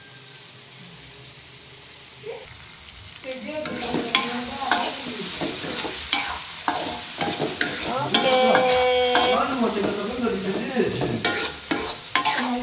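A long metal spatula stirring and scraping chili-tomato sambal in a wok as it sizzles in hot oil, with clinks of the spatula against the pan. It starts about three seconds in, after a quiet opening. A brief steady tone sounds a little past the middle.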